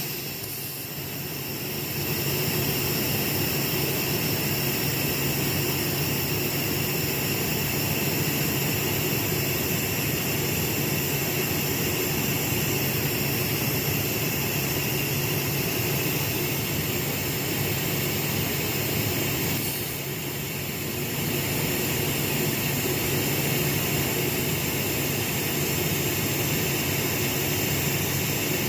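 TIG welding arc on stainless steel tubing, a steady hiss and buzz, with two brief dips near the start and about two-thirds of the way through.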